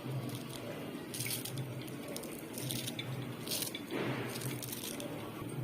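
Chicken masala gravy simmering in the pan: a steady hiss with irregular crackly bubbling bursts.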